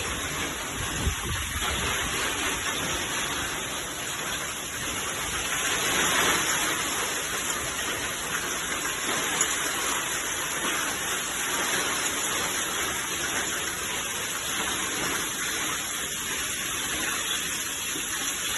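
A hailstorm: rain and hailstones falling hard, a steady dense hiss that swells about six seconds in, with a couple of sharper knocks.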